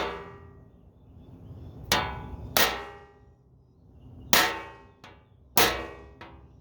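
A metal baking pan struck hard with a stick, five loud clangs at uneven spacing, each ringing on and fading over about a second, with a couple of lighter taps near the end.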